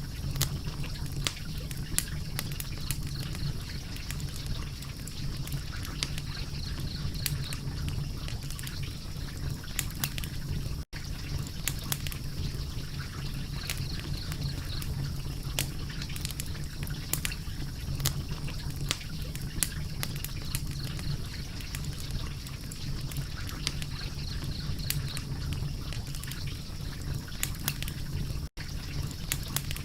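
Wood fire crackling steadily, with frequent sharp pops and snaps over a low hiss. The sound cuts out for an instant twice, about eleven seconds in and near the end.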